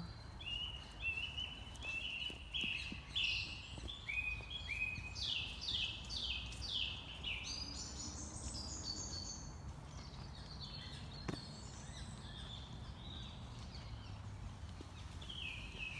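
Woodland songbird singing a long series of short, repeated, downward-sliding whistled notes that come faster and climb higher toward the end, followed by fainter calls from other birds, over a steady low outdoor rumble.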